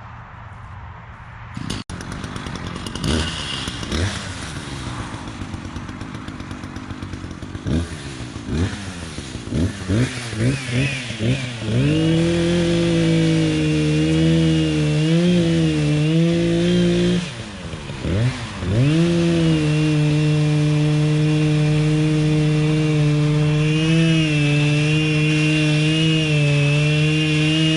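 Echo CS-590 Timberwolf two-stroke chainsaw blipped up and down several times, then held at high revs, dropping briefly in the middle and coming back up to full throttle.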